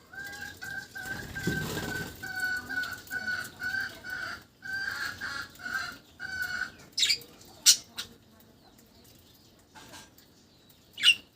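Budgerigar calling: a run of repeated even-pitched notes, about two or three a second, then after a pause a few short, sharp high chirps.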